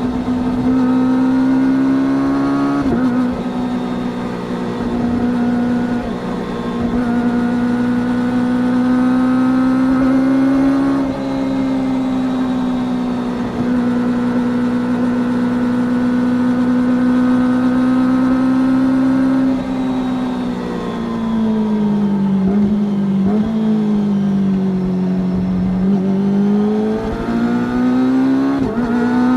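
Kawasaki Ninja ZX-25R's 249 cc inline-four running through an Akrapovič Racing Line full-carbon exhaust at high revs while riding. The note holds steady through several stretches with short breaks between them, drops lower for a few seconds past the middle, then rises again near the end.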